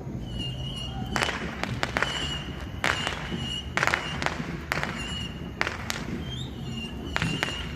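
Fireworks going off: about a dozen sharp cracks and bangs at irregular intervals, with a high thin whistle-like tone recurring between them.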